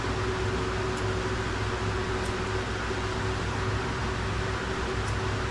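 Steady whir of a running motor, an even hiss over a low hum and a steady mid-pitched tone, with a few faint high ticks about a second apart.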